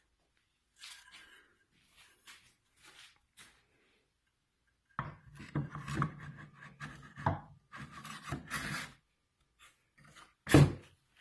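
Wooden table-saw crosscut attachment being handled and turned over: short wood-on-wood scrapes and rubs, a busier stretch of rubbing and knocking in the middle, and one louder knock near the end.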